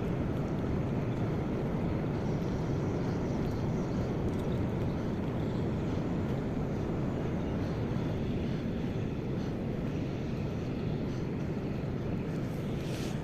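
Steady low rumble of ship engines, even and unbroken.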